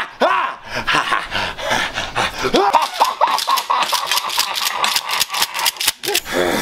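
Wordless human cries and yells with rising and falling pitch, mixed with a rapid run of sharp clicks or knocks, densest in the second half.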